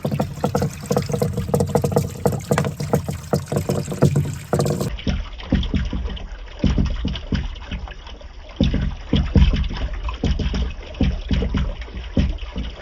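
Water running down a handmade bamboo marble-run track, with many quick small knocks and clatters of balls rolling and bouncing along it.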